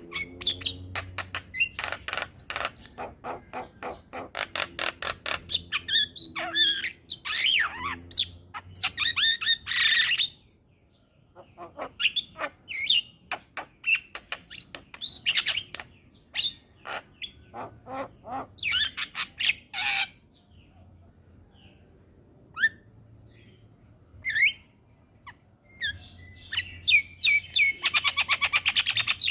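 Javan myna singing: rapid runs of short, harsh chattering notes and clicks, broken by brief pauses about a third of the way in and again past two-thirds, then a fast rattling trill near the end.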